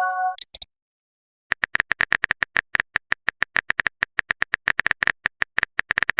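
Messenger-app sound effects: a chime-like notification tone dies away, a short high blip follows, then after a brief pause comes a long run of rapid keyboard typing clicks.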